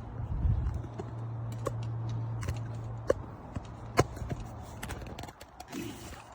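Sharp plastic clicks and knocks from handling a jump starter pack, as its flap is opened and the clamp lead's connector is fitted, over a low steady hum that fades out about five seconds in.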